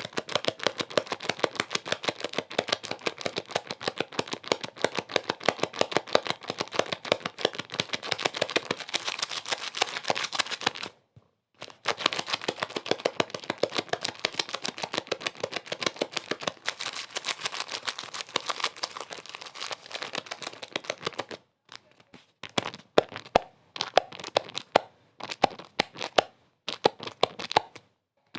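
Dense, rapid crackling made of many sharp clicks a second. It cuts out briefly about eleven seconds in, and near the end it breaks into short bursts separated by silences.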